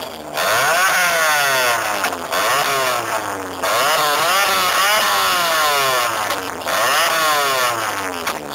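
A tuned car's engine being revved again and again, its pitch climbing and dropping back roughly once a second.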